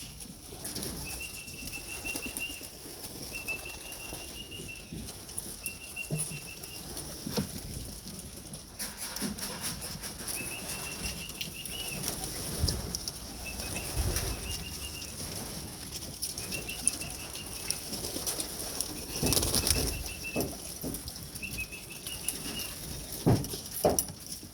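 Young pigeons' wings flapping in several louder flurries as they come down to the loft. Under them is a series of short, steady, high whistles about every two seconds: the fancier's whistle calling the birds in.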